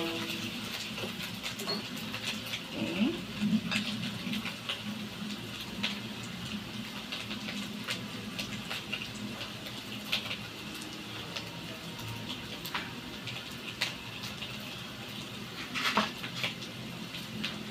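Fish cake and mushroom cake frying in sauce in a wok over a gas flame: a steady sizzle with scattered small pops and crackles, a few louder ones near the end.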